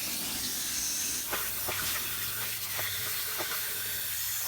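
Water heater tank rinser wand spraying water inside an RV water heater tank, a steady hiss of spray flushing out calcium deposits.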